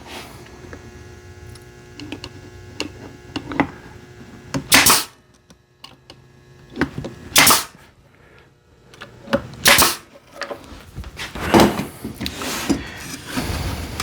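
A brad nailer firing three brads into cedar roof boards, sharp shots about two and a half seconds apart. Smaller clicks and knocks follow near the end as the wood is handled.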